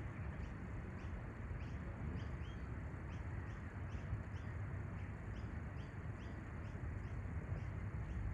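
A small bird chirping over and over, short high chirps at an even pace of about two to three a second, over a steady low rumble.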